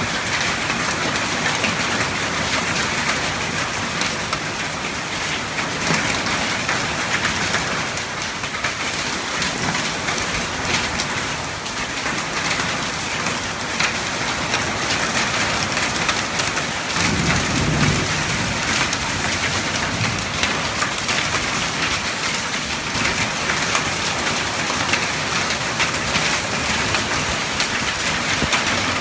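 Heavy rain mixed with hail pelting down, a dense steady hiss peppered with sharp ticks of stones striking. Roughly two-thirds of the way in there is a short low rumble of thunder.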